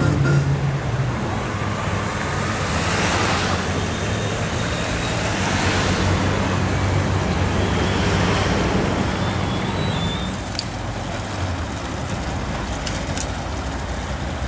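Street traffic: engines running and vehicles passing, with two broad swells as passing vehicles go by in the first half, then a steadier hum.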